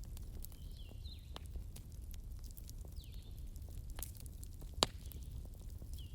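Wood campfire crackling, with scattered small pops and one sharp loud pop nearly five seconds in, over a low steady rumble.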